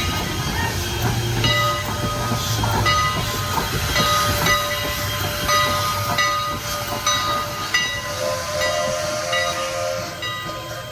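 A train moving along the track: a low rumble with repeated metallic clanks and a hiss, over high squealing tones from the wheels and cars that come and go, with a lower pair of squeal tones near the end.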